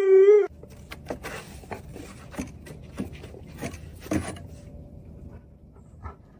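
A dog's held vocal note that cuts off sharply half a second in, followed by faint scattered clicks and shuffling.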